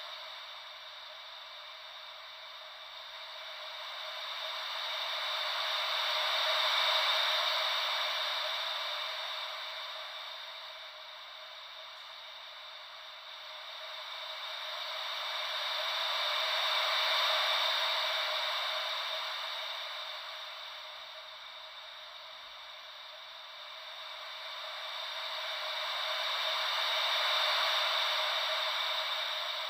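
Ocean-wave white noise: an even hiss, with no deep rumble, that slowly swells and fades about every ten seconds, like waves coming in and drawing back.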